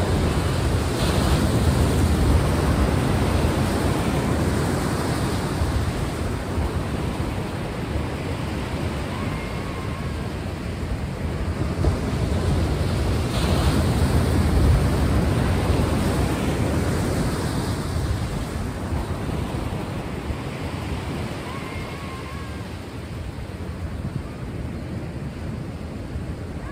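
Ocean surf: waves rolling and washing in a steady rush that swells twice and eases off toward the end, with two faint short high chirps.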